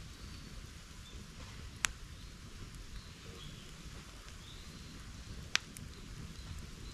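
Bonfire crackling and hissing steadily, with two sharp pops, one about two seconds in and one about five and a half seconds in.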